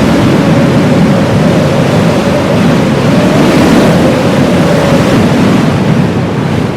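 Heavy blizzard wind rushing steadily, with a whistling note in the gusts that fades out about five seconds in.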